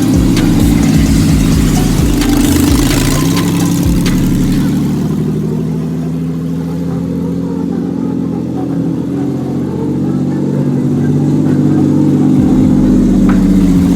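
Nissan Xterra race truck's engine running steadily as the truck drives, with a rushing noise on top that fades about five seconds in; the engine grows louder again near the end.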